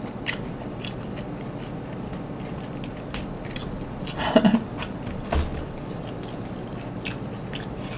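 Close-miked chewing of fried chicken, with small wet clicks and crackles scattered throughout. A short hum of the voice comes about four seconds in, and a low thump a little after.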